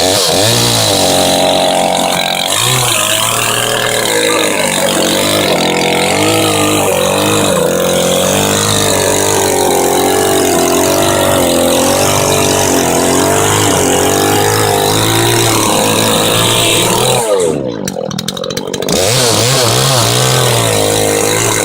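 Two-stroke chainsaw running hard through a cut, its pitch wavering as the load changes. Near the end it drops back for a moment, then revs up again.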